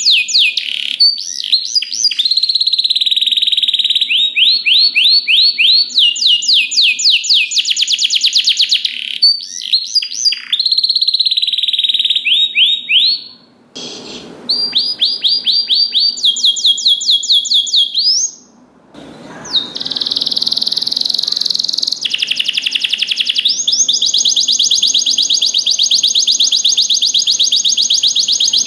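Domestic canary singing: fast runs of repeated high notes and rolling trills. The song breaks off briefly twice, about 14 and 19 seconds in, then goes into a long, unbroken rolling trill through the last third.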